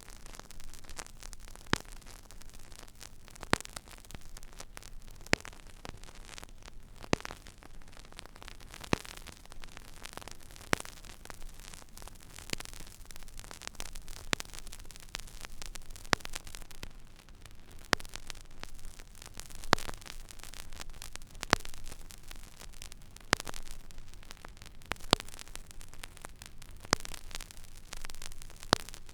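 Stylus riding an empty vinyl record groove: steady surface hiss and fine crackle, with a sharp click about every 1.8 seconds, once per turn of the record, over a faint low hum.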